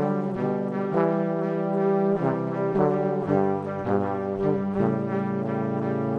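Brass instruments playing a passage of held chords, the notes changing about once a second.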